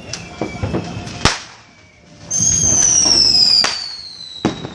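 Consumer fireworks going off: a few sharp bangs, and a loud whistling firework whose pitch slides steadily down for about a second and a half, starting a little past two seconds in.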